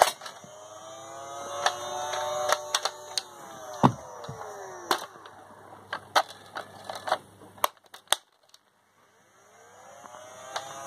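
A small electric motor, likely a Nerf blaster's battery-driven flywheels, spinning up and winding down again and again, with sharp plastic clicks from the blaster's mechanism. It goes quiet for about a second late on, then starts to spin up again.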